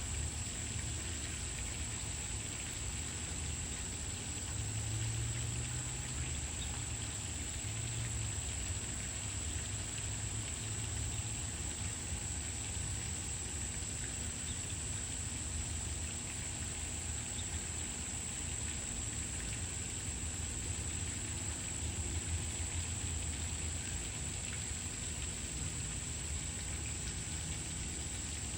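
Steady outdoor background noise: an even hiss with a constant high-pitched whine and a low rumble, and no distinct calls or knocks standing out.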